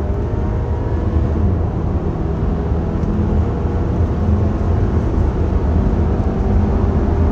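Audi Q5 Sportback's 2.0 turbo petrol four-cylinder accelerating hard in Dynamic mode, heard from inside the cabin over a steady low road and tyre rumble. The engine note climbs faintly as the car speeds up, and the S tronic gear changes are imperceptible.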